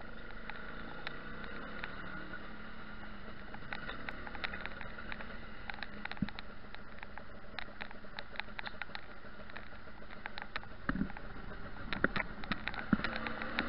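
Honda 250 cc two-stroke motorcycle engine running steadily while riding, with many sharp clicks and knocks on top that come thicker and louder near the end.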